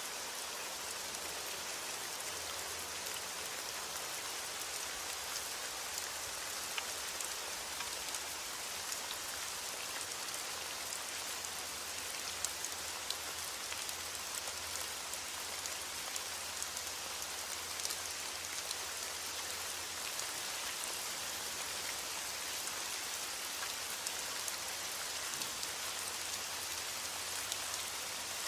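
Heavy rain falling steadily on a window, with the scattered pops and ticks of a crackling fire.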